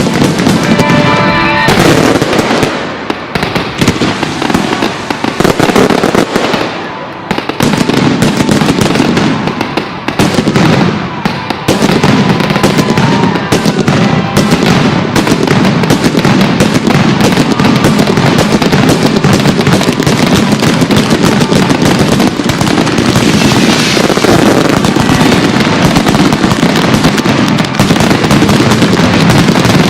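Aerial fireworks going off in rapid, overlapping bangs and crackle, very loud and nearly continuous, over a show's music soundtrack.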